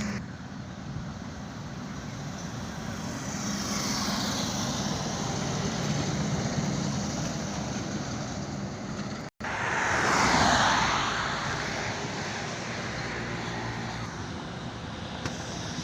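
Highway traffic passing: steady tyre and engine noise, with one vehicle going by about four seconds in and a louder one going by around ten seconds in, just after a momentary dropout in the sound.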